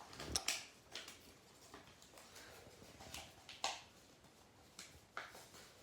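A sheet of paper being handled and folded: several short crinkles and rustles, spaced irregularly.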